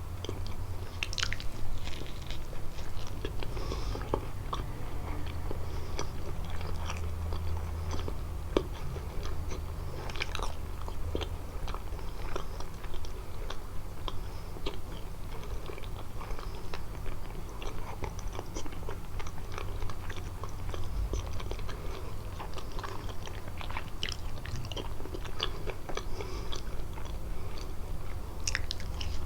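Close-miked chewing and biting of kalaj pastry, with many small crisp crackles and clicks from the mouth.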